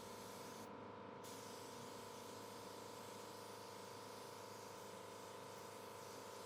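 Faint steady hum with a low hiss: near-silent background tone.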